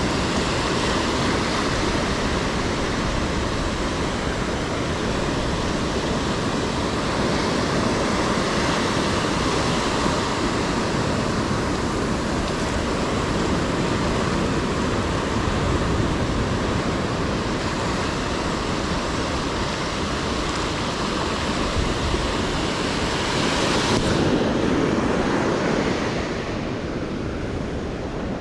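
Ocean surf washing onto the beach in a steady rush. About 24 seconds in, the sound turns duller and softer.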